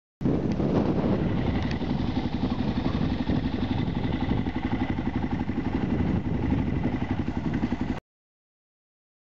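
Kawasaki KLR650's single-cylinder engine running at a steady, low road speed, with a fast, even beat of firing pulses, cut off suddenly near the end.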